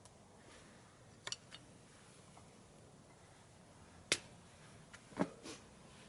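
Wood fire in a small wood stove crackling: a few sharp, scattered pops and cracks, the loudest about four seconds in and another pair just after five seconds, over a quiet background.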